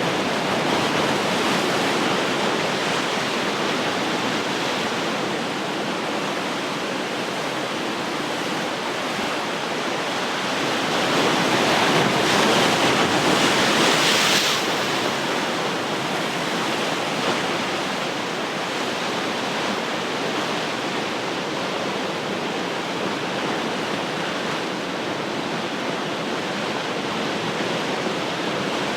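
Ocean surf: a steady rush of waves washing on the shore. Midway one wave swells louder and hissier for a few seconds, then falls away fairly suddenly.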